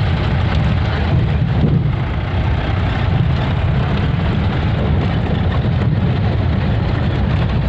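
Steady engine and road noise of a car driving, heard from inside the car.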